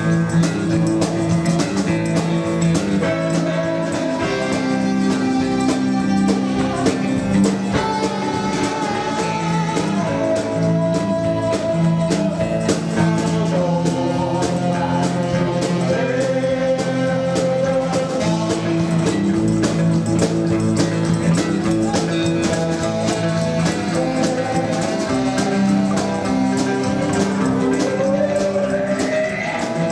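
Live rockabilly band playing: electric guitar over slap double bass and drums, with a rising guitar glide near the end.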